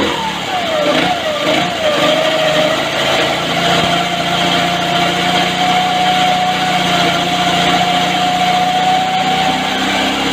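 Go-kart engine running, its revs rising and falling for the first couple of seconds, then holding steady and creeping slowly up.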